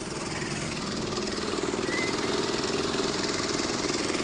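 Engine of the concrete-casting machinery for a roof pour running steadily with a fast, even chugging rhythm, growing a little louder over the first second or so.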